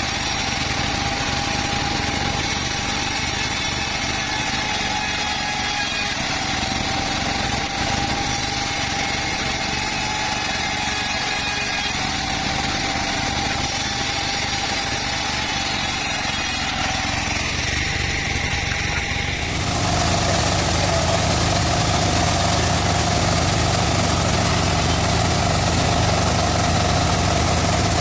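Band sawmill running steadily with a held whine. About two-thirds of the way through, the sound abruptly gets louder, with a hiss and a heavier rumble added.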